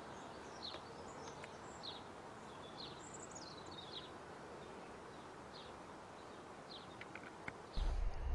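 Birds chirping outdoors: short high calls repeated about once or twice a second over a steady background hiss. A low rumble comes in suddenly near the end.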